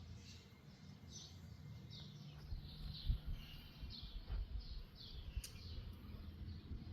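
Small birds chirping over and over, with wind gusting on the microphone from about two seconds in.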